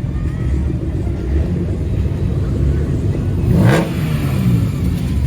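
Car engine running with a low, steady rumble; about three and a half seconds in it revs briefly, the pitch rising sharply to a loud peak and then falling back.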